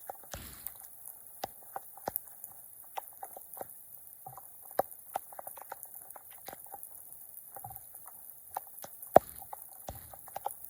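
Water in a flooded drain making irregular small pops, clicks and drips, with two brief splashes, one just after the start and one about nine seconds in.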